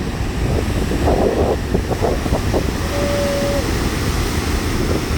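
Sea surf breaking and washing ashore, with strong wind buffeting the microphone in a steady, dense roar. A brief steady tone sounds about three seconds in.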